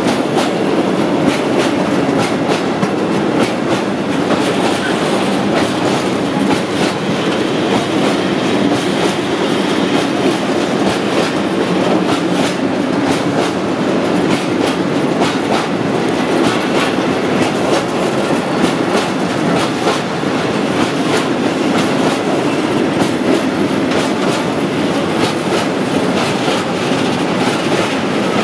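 Freight train of tank wagons rolling past close by: a steady wheel-on-rail rumble with repeated clicks as the wheels run over the rail joints.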